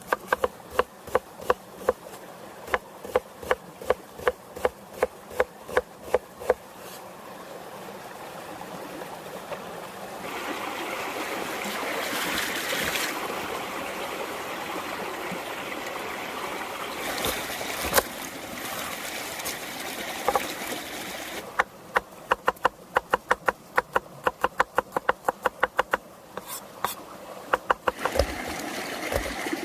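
A knife chopping on a wooden cutting board at about two or three strokes a second, stopping about six seconds in. A steady sizzle of food frying in a pan takes over and grows louder, then cuts off, and the chopping starts again near the end.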